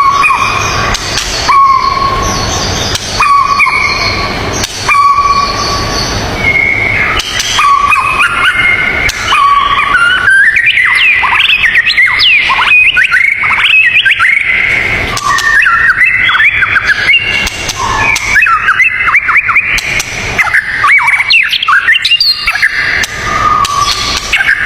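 Songbirds singing: first a short whistled note repeated about every second and a half over a steady hiss, then, from about a quarter of the way in, a dense chatter of quick rising and falling chirps.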